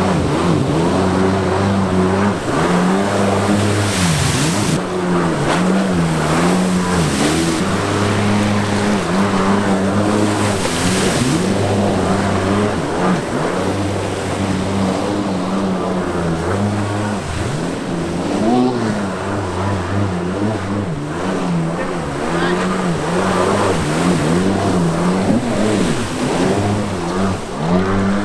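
Stand-up jet ski engine running hard, its pitch rising and falling as the throttle is worked, with a few bursts of rushing noise in the first half.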